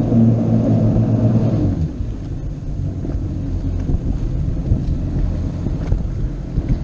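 A motorboat's engine running with a steady hum. About two seconds in the engine note drops away, leaving a low, even rumble.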